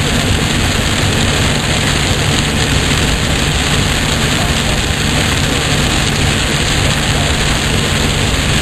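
Heavy rain falling hard on a moving car, heard from inside the cabin as a loud, steady rush, with the car's road noise underneath.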